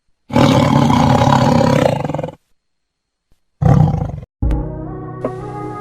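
A loud roar lasting about two seconds, then a shorter second roar after a pause, and about four and a half seconds in, music with sustained held tones begins.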